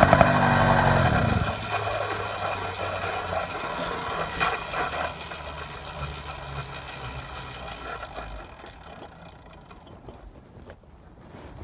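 Motorized bicycle engine with an upgraded exhaust running loud; about a second in its note drops sharply, and the sound then fades away steadily.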